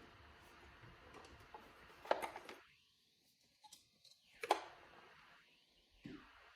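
Faint room tone with two soft knocks, about two and four and a half seconds in, from the robot vacuum being handled and lifted.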